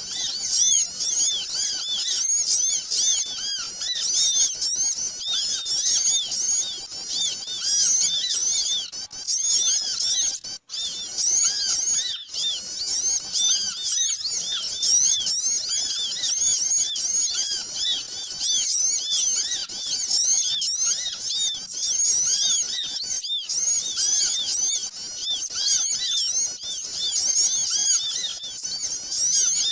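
A noisy flock of small birds chirping all at once, with a dense mass of overlapping high, quick chirps that never pause. This is a lure (pikat) recording used to call small birds in.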